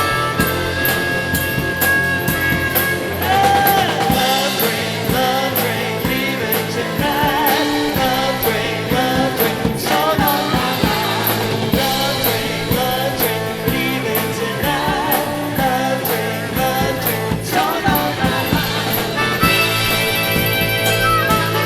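Live rock band playing an instrumental break, with drum kit and bass keeping a steady beat under a wavering lead instrument line.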